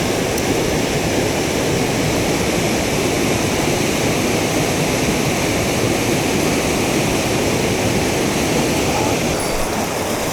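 Mountain stream water rushing steadily over rocks, a loud, even hiss.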